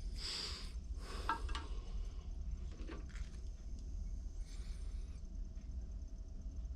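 Rustling and a few light clicks of small carburetor parts being handled in the first three seconds, over a steady low hum, with a faint high warble near the end.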